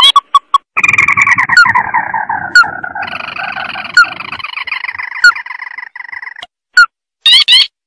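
Crake calls from a bird-lure recording: short sharp call notes, then a long rapid chattering run that falls slowly in pitch and lasts about five seconds, then a few single notes near the end.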